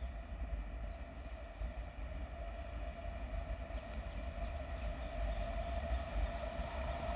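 Electric-hauled express train approaching from a distance: a steady low rumble slowly growing louder. About halfway through, a bird gives four quick falling chirps, followed by fainter ones.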